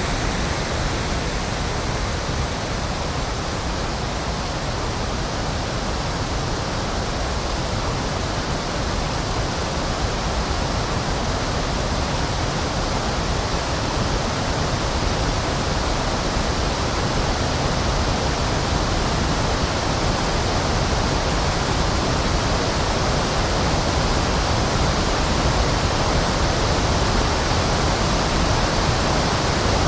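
Electronically generated pink noise: a steady, even hiss that changes little over time.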